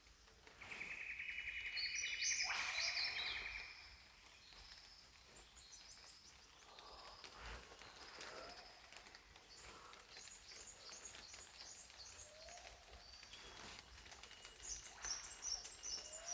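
Small forest birds calling: a loud, rapid trill lasting about three seconds near the start, with higher chirps over it, then scattered faint high chirps and short phrases.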